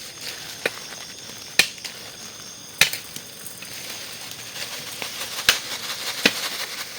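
Wood being chopped with a blade: about six sharp, irregular strikes, over a steady high-pitched chorus of night insects.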